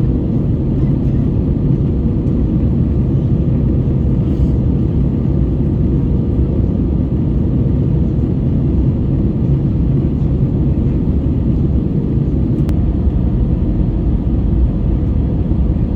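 Steady low cabin drone of an Airbus A320-214 in flight, heard from inside the passenger cabin: engine and airflow noise. A faint steady whine sits above the rumble and fades out near the end.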